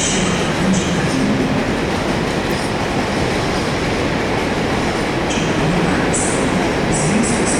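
A train running along the track, a steady loud rumble with short high-pitched bursts near the start and again in the second half.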